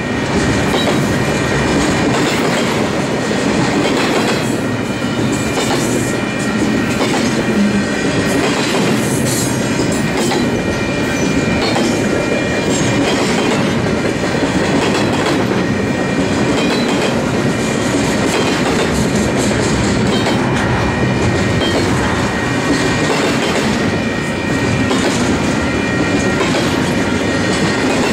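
Loaded double-stack intermodal container train of well cars passing at speed: a steady, loud rumble and clatter of steel wheels over the rail, with thin high squealing tones from the wheels riding over it.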